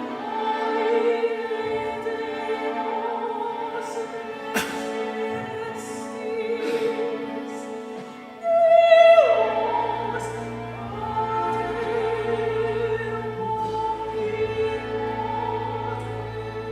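A classical solo voice singing sustained, vibrato-laden lines with chamber orchestra accompaniment in a performance of a Mass. About halfway through a louder vocal phrase enters and falls in pitch, and a low bass line joins beneath.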